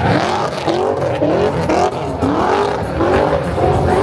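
Car engine revved in quick repeated blips, its pitch rising and falling about twice a second.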